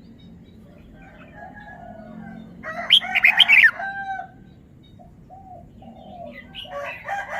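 Red-whiskered bulbul singing: a loud, quick warbled phrase about three seconds in, with fainter short calls between and another phrase starting near the end.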